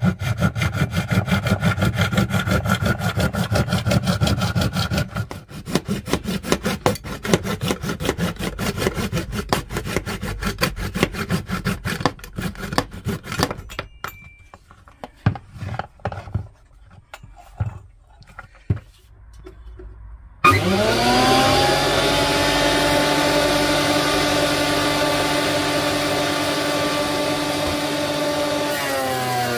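Hand saw cutting with fast, even strokes for the first half, slowing to scattered strokes and knocks. About 20 seconds in, an electric motor on a workshop machine starts up, its whine rising quickly to a steady pitch and dipping slightly near the end.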